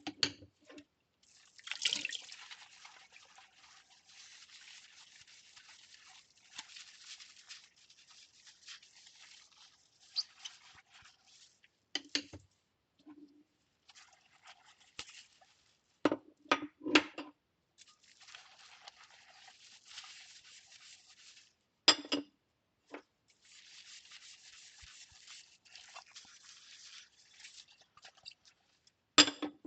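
Ceramic bowls being hand-washed: long passes of soapy scrubbing, broken by sharp clinks and knocks of ceramic, with a cluster of three knocks about sixteen seconds in.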